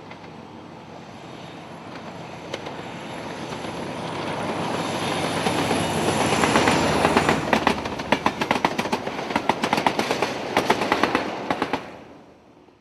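Train hauled by a Class 47 diesel locomotive approaching and passing at speed: a rumble that grows louder, then rapid clicking of wheels over rail joints, fading out near the end.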